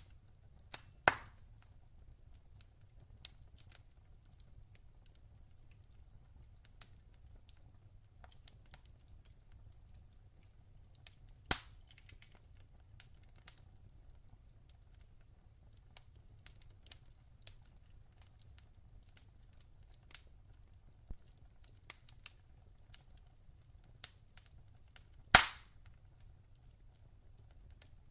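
Log fire crackling: sparse small snaps with three loud pops, about a second in, near the middle and near the end.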